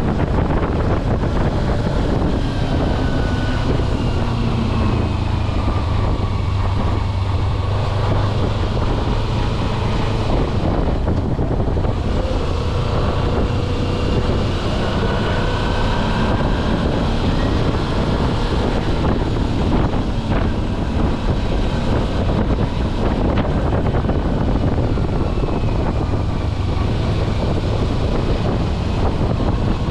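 Kawasaki Versys-X 250's parallel-twin engine running under way, its pitch slowly rising and falling as the revs change, with wind buffeting the microphone.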